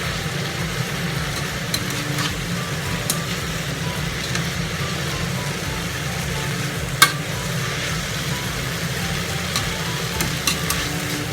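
Pork, kimchi and sliced onion sizzling in a frying pan while being stirred, with a utensil clicking against the pan now and then and one sharper knock about seven seconds in. A steady low hum runs underneath.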